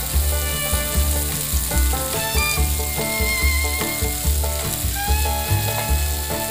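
Mushrooms and chopped onion sizzling in oil in a nonstick frying pan as they are tossed with a wooden spatula, under background music with a steady beat.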